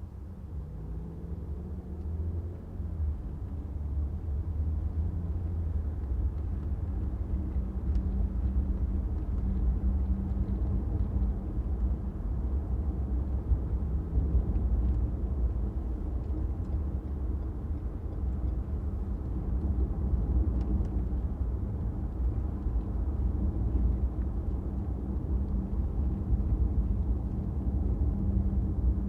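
A car driving on a city street: a steady low rumble of engine and road noise, getting louder in the first few seconds as the car picks up speed.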